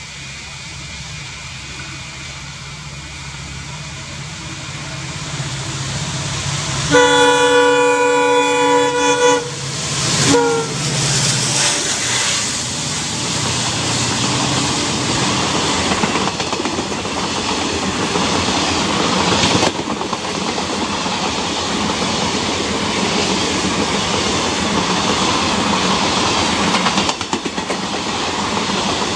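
A WDP4D diesel locomotive approaches, its engine hum growing louder. About a quarter of the way in it sounds its horn, a chord of several notes held for about two and a half seconds, followed by a short falling note. The train of coaches then rushes past, wheels clattering on the rails.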